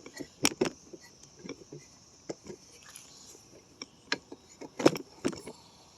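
Scattered sharp clicks and knocks of hand tools against the mower's metal parts while rusted screws on a lid are worked at, the loudest near the end. Crickets chirr steadily in the background.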